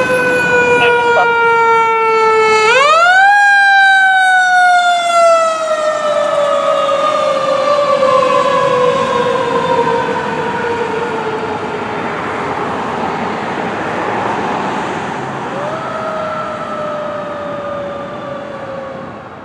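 Federal Signal Q2B mechanical siren on a fire engine. It is winding down when it is spun back up sharply about three seconds in, then coasts slowly down in pitch and loudness over some fifteen seconds, with one more short rise and fall near the end.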